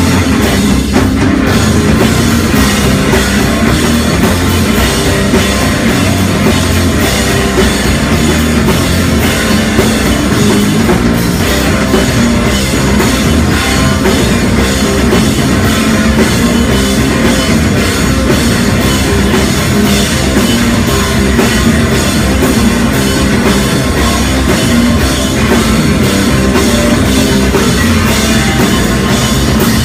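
A loud rock band playing live: distorted guitars, bass and a fast, driving drum kit, dense and without a break.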